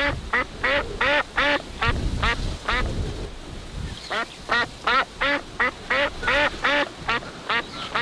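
A run of short, repeated animal calls, each rising and falling in pitch, about two or three a second, with a brief pause midway.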